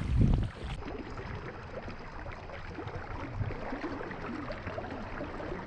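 Water sloshing and splashing around a paddle board on a river, with scattered small clicks and knocks; wind buffets the microphone for about the first half second.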